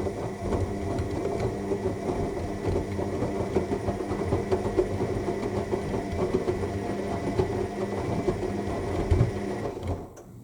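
AEG 7000 Series washing machine running in its final rinse: a steady motor hum with a thin high whine over an irregular churning of water and laundry. It stops suddenly near the end.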